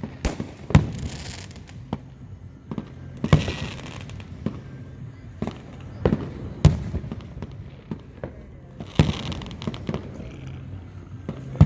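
Aerial fireworks bursting: a string of sharp booms a second or more apart, with crackling after several of the bursts.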